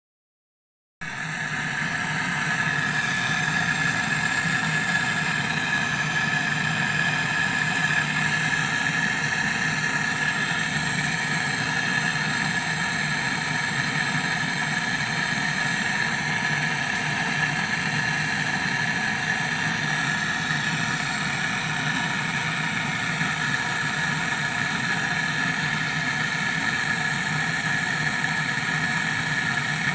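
Window air conditioner running, a steady mechanical hum with a constant high whine that starts suddenly about a second in.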